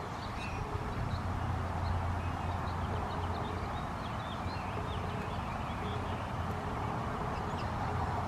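Many short, faint bird chirps, scattered throughout, over a steady outdoor background hum.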